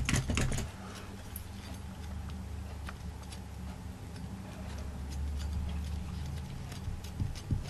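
Scattered light ticks and taps from hands handling small craft pieces, over a low steady hum.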